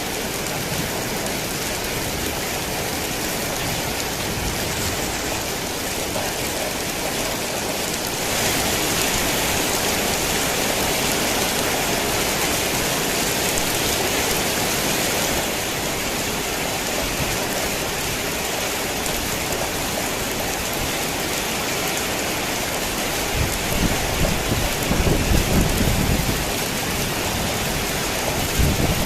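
Heavy rain drumming on a tin roof as a steady hiss, growing heavier for several seconds in the first half. Low thunder rumbles for a few seconds near the end.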